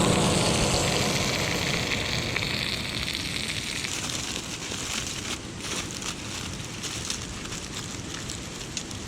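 Wood campfire burning with a steady hiss and scattered crackles, loudest at the start and slowly dying down.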